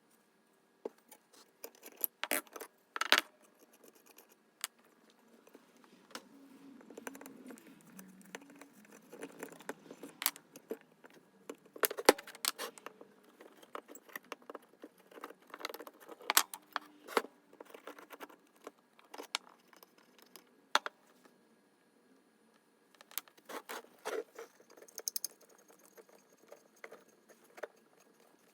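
Metal parts of a Stanley Bailey No. 5 jack plane being taken apart by hand: irregular sharp clinks and clanks, the loudest about two to three seconds in and again around twelve seconds, with softer scraping and rubbing between.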